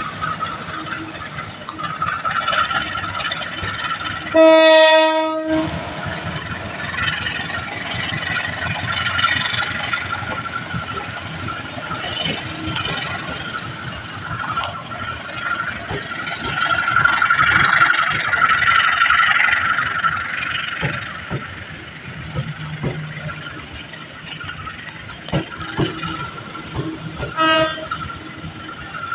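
A train passing, with continuous rail and wheel noise and many short clicks. Its horn sounds one loud blast of about a second a few seconds in, then a shorter, fainter blast near the end.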